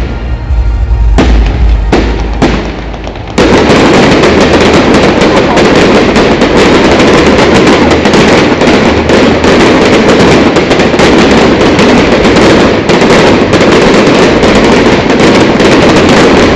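Fireworks display: a few separate bangs, then from about three seconds in a dense, continuous barrage of rapid reports and crackling, very loud.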